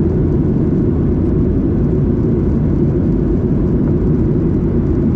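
Steady cabin drone of a Boeing 737-800 in flight, heard from inside the passenger cabin: the low rumble of its CFM56 engines and the airflow over the fuselage.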